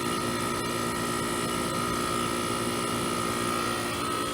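Trane central air-conditioner condenser running steadily, its compressor and condenser fan both going, the compressor restarted on a new run capacitor with a hard-start booster. A steady hum with a thin high tone over it and an airy fan rush.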